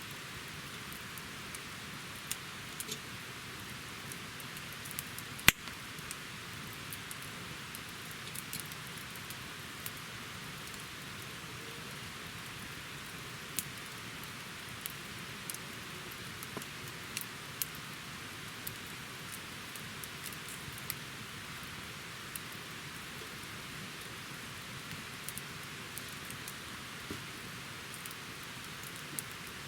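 Wood campfire burning: a steady hiss with scattered crackles and pops, and one sharp, much louder pop about five and a half seconds in.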